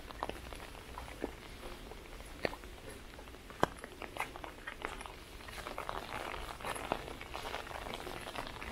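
Light rain: irregular drops tapping on an umbrella held overhead, thickening into a denser patter about halfway through.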